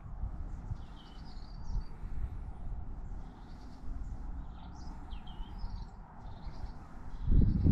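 Small birds chirping, a few short calls at a time, recurring every second or two over a steady low rumble. Near the end a much louder low rumble sets in.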